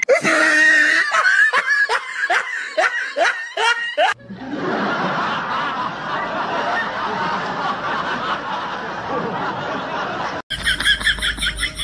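A person laughing hard in quick repeated bursts for about four seconds, then steady street noise. After an abrupt cut near the end comes a short, rapidly pulsing sound.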